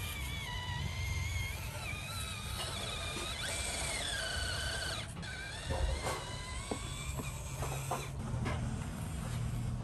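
Electric motor and gears of an RC off-road truck whining, the pitch rising and falling as the throttle changes, over a low rumble with scattered clicks and knocks from the drivetrain and ground.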